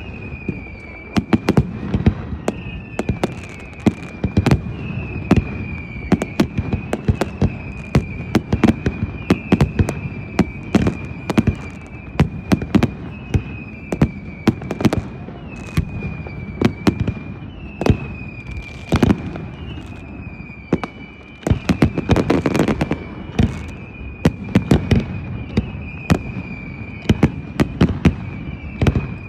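New Year fireworks going off thick and fast: sharp bangs and crackles several times a second, with a heavier cluster about two-thirds of the way in. A high, wavering, whistle-like tone carries on underneath.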